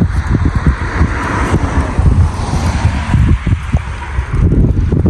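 Wind buffeting the microphone: an irregular, gusty low rumble, with a hiss that swells in the first half and then fades.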